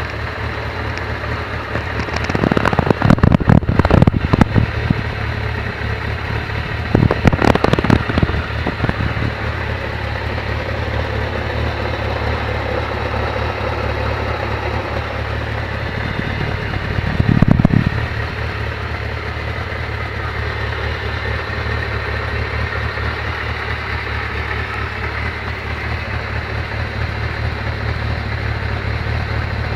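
Kawasaki ZZR400 motorcycle's inline-four engine idling steadily, with three brief louder surges of revs: a couple of seconds in, around eight seconds, and around seventeen seconds.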